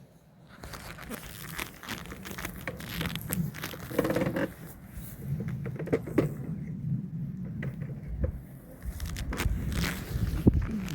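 Crinkling and scraping handling noises with scattered clicks and knocks as a beehive is opened and its frames are worked loose.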